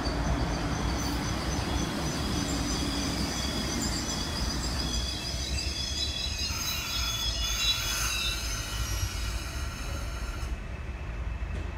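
MTR East Rail Line Metro-Cammell electric multiple unit pulling into the platform and braking to a stop, with a low rumble and several high-pitched wheel and brake squeals. The squeals waver in pitch and cut off suddenly about ten and a half seconds in.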